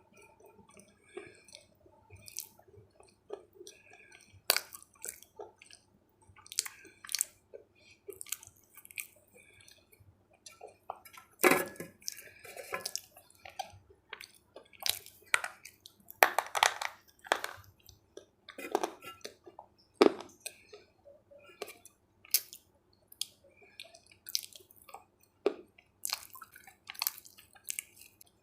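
Close-miked chewing of crunchy food: irregular crisp crunches mixed with wet mouth sounds, the loudest bites clustered around the middle.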